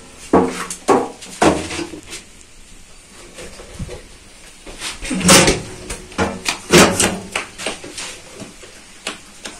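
A black sheet-metal baking tray being handled and knocked against the stove hearth: a series of short clatters and knocks, loudest about five and seven seconds in, with quieter scraping and handling between.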